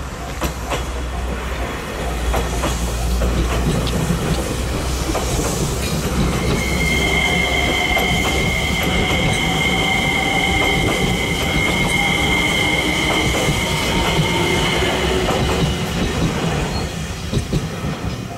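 A train passing close by at low speed, with a steady high-pitched wheel squeal through the middle of the passage, over a low rumble and the clicking of wheels over rail joints.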